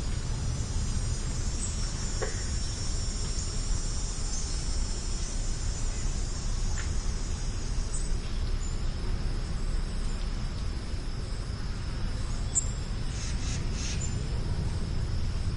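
A steady, high-pitched insect chorus with a few short, high bird chirps, over a steady low rumble.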